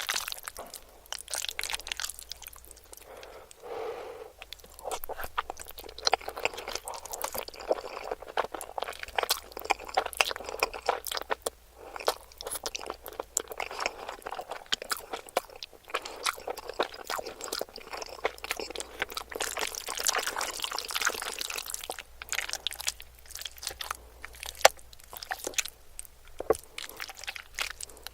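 Close-miked mukbang eating sounds: steady chewing with many crisp, crackling crunches of food, and one sharper crunch near the end.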